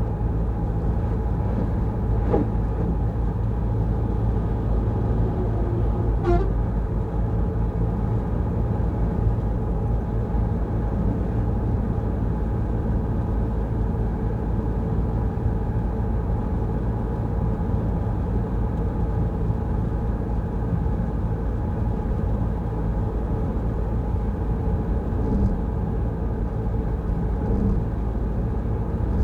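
Peugeot Rifter driving at steady speed: a constant low drone of engine and road noise, with no change in pitch.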